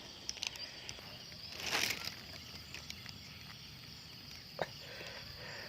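Steady high-pitched insect trilling, with a brushing rustle about two seconds in and a single sharp click near the end.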